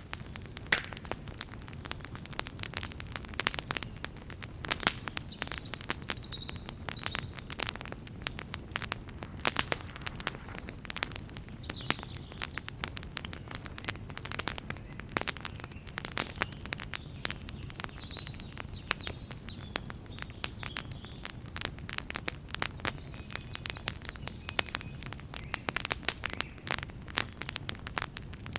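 Wood campfire crackling: dense, irregular sharp snaps and pops over a steady low rumble of the flames.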